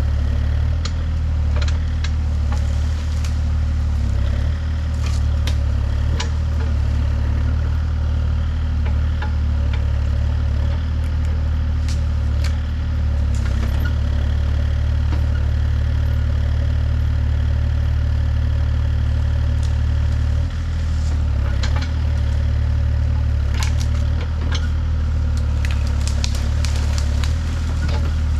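A heavy engine running steadily at a low pitch, with scattered sharp clicks and cracks over it, more of them near the end.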